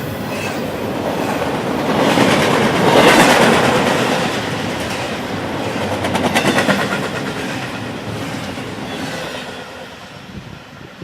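Train cars rolling past, their wheels clacking over rail joints with a rush of rolling noise. The sound swells twice and then fades away near the end as the train passes.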